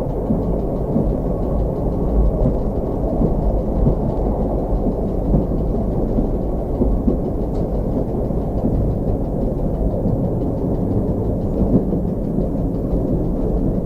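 Steady low rumble of a Slovenian Railways series 813 diesel railcar running along the line, heard from inside the driver's cab: the engine and the wheels on the rails.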